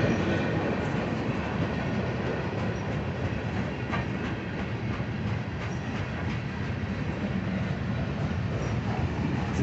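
Freight train cars rolling past: a steady rumble and rattle of wheels on the rails, with faint scattered clicks.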